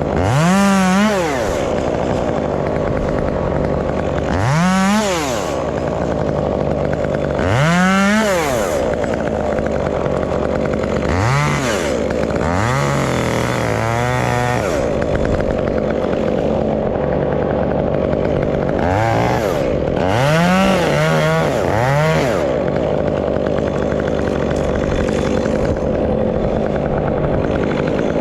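Stihl 201 top-handle two-stroke chainsaw idling and revved up and back down about seven times. The revs come in spurts through the first three quarters, with a quick cluster past the middle, then the saw settles to a steady idle near the end.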